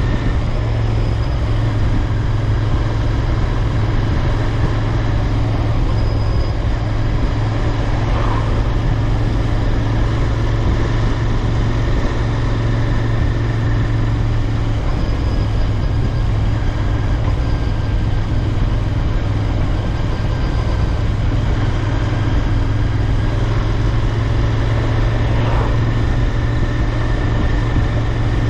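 Royal Enfield Interceptor 650's 648 cc parallel-twin engine and exhaust running at a steady, unchanging speed while the motorcycle is ridden.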